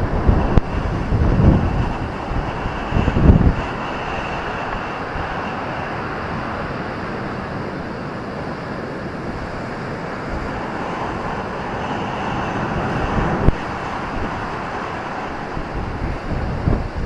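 Ocean surf breaking, a steady rushing wash that swells a little past the middle, with wind buffeting the microphone in low gusts during the first few seconds.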